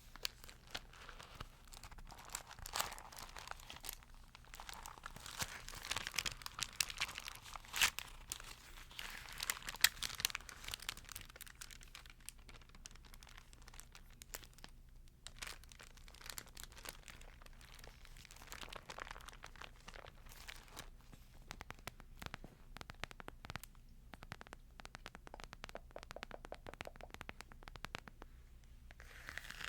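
Thin Bible pages being handled and turned, with crisp crinkling and crackling that is busiest in the first ten seconds or so and again briefly later on. A faint steady low hum runs underneath.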